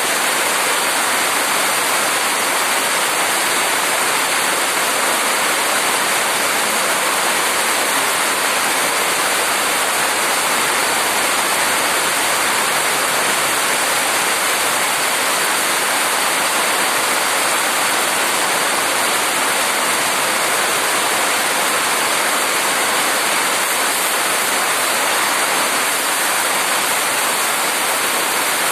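Heavy downpour of rain, a dense, steady hiss that never lets up.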